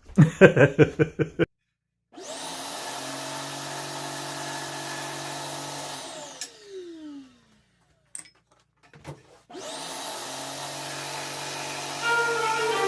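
Scroll saw running with a steady motor hum while cutting fudge. It is switched off, winding down with a falling tone, and a few seconds later it starts up again.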